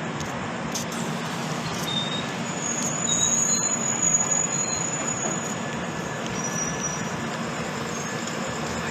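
Train running on the rails: a steady rumble with thin, high squeals from the wheels, the longest from about two and a half to five seconds in.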